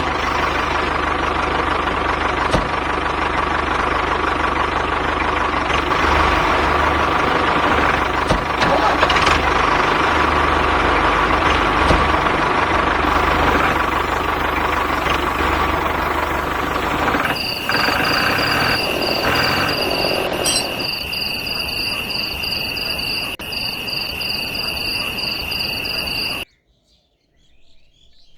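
A motor running steadily with a low hum. About two-thirds of the way through, the sound changes to a steady high-pitched whine, which cuts off abruptly near the end.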